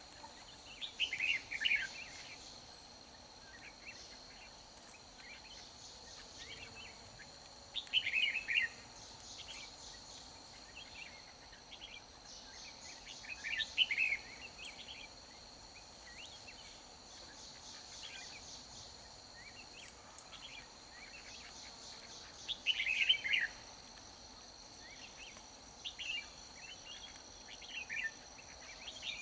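Red-whiskered bulbul singing short, bright phrases in bursts every few seconds, five times, over a steady high buzzing of insects.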